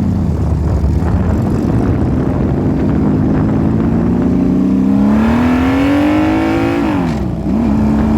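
Motorcycle engine accelerating, its pitch climbing steadily, then dropping sharply at a gear change about seven seconds in before holding steady again.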